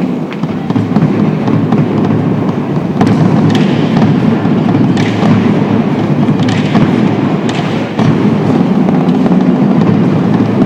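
Bass choir ensemble of low male voices singing loudly, the dense low sound overloaded in the recording, with a few sharp accents.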